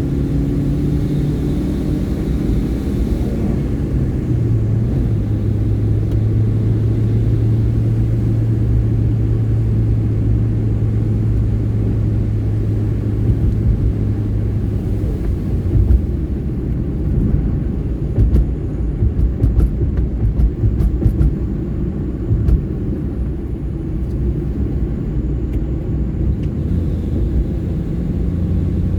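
Hyundai i10 car driving, its engine and road noise making a steady low rumble. A low hum holds steady for about ten seconds, then the sound turns rougher, with scattered knocks and rattles over the middle stretch.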